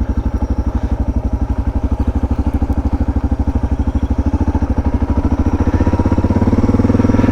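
Suzuki DR650's single-cylinder four-stroke engine idling with an even, rapid thump, the revs rising slightly near the end.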